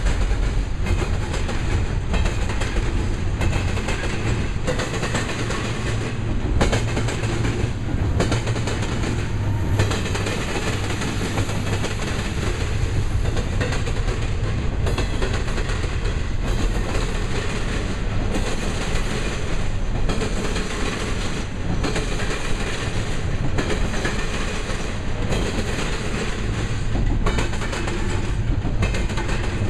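Double-stack intermodal well cars rolling past at speed: a steady low rumble with a regular clickety-clack of the wheels over the rail joints, a little more than one clack a second.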